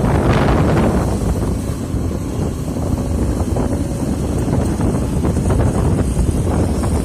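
Excavator's diesel engine running steadily with a deep rumble, with wind buffeting the microphone.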